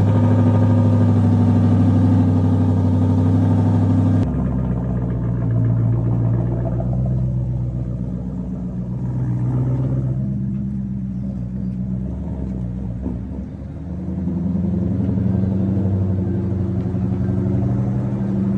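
Supercharged Ford Mustang V8 engines being revved. One engine is held at a steady high rev for about four seconds, then cuts abruptly to another recording of a V8 rumbling as it revs up and down in several swells.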